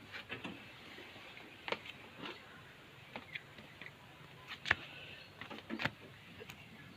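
A handful of sharp clicks and light knocks, scattered irregularly over a faint steady hiss, the loudest about two-thirds of the way through.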